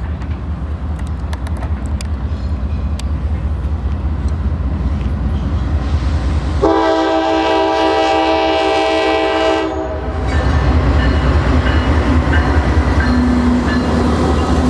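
Norfolk Southern diesel freight locomotives approaching with a low rumble that grows louder. About six and a half seconds in, the locomotive's air horn sounds one long chord of about three seconds. The loud rumble of the train passing follows it.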